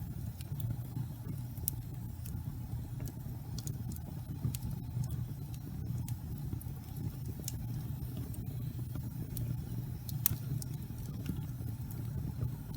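Wood fire burning in a fireplace: a steady low rumble of flame with irregular crackles and sharp pops, the loudest pops about two, seven and ten seconds in.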